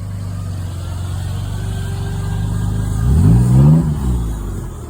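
A car engine running steadily, then revved once about three seconds in, its pitch rising and dropping back within a second. This is typical of a car pulling in and manoeuvring.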